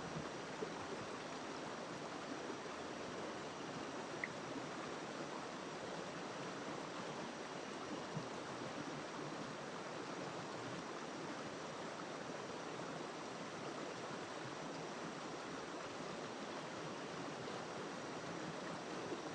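River water rushing and splashing over rocks, giving a steady even rush. A few faint small ticks come through it.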